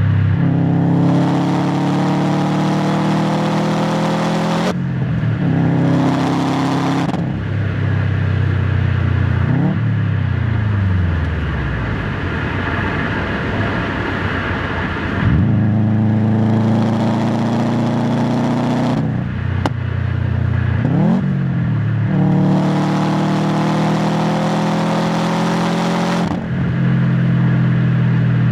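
Subaru WRX STI's turbocharged 2.5-litre EJ257 flat-four exhaust under hard acceleration through the six-speed manual's gears: the pitch rises in pulls broken by short drops at each upshift. Near the middle the engine comes off throttle and its pitch falls into a low rumble before it pulls hard again twice more.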